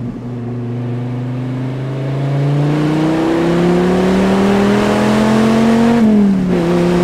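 Dodge Viper SRT-10's 8.3-litre V10 accelerating, heard from inside the cabin. The engine note climbs steadily and grows louder for about six seconds, then drops at a gear change and carries on steady at lower revs.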